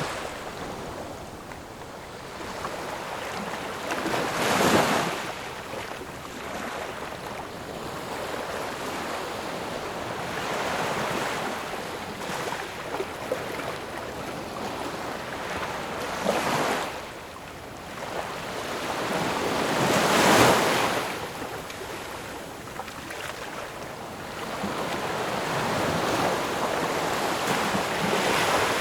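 Ocean waves breaking and washing ashore in a steady rush, with louder surges about 5, 16 and 20 seconds in and a long swell near the end.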